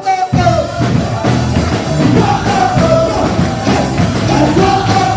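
Worship band music with singing: a full band with drums comes in loudly just after the start, a melody line wavering above it.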